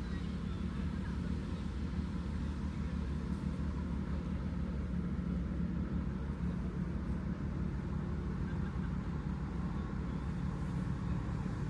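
Steady low rumble of a running engine and a moving vehicle, with most of the sound deep in the bass and no distinct events.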